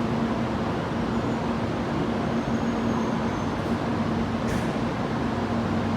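N700-series Shinkansen train giving off a steady hum and rumble, with one constant low tone, and a brief hiss about four and a half seconds in.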